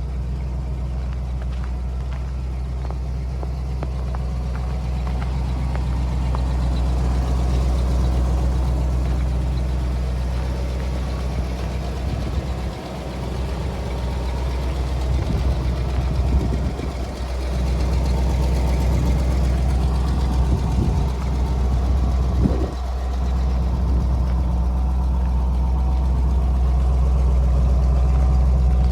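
The gasoline engine of a 1995 Ford F-250 4x4 service truck idling steadily, with a few brief irregular disturbances in the middle.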